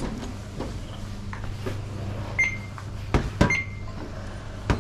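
Shop checkout sounds: short electronic beeps, like a barcode scanner, twice, with knocks and clatter of goods being handled, over a steady low hum such as refrigeration.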